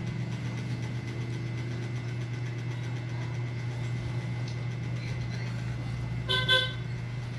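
A steady low hum, then one short horn toot about six and a half seconds in, like a passing vehicle's horn.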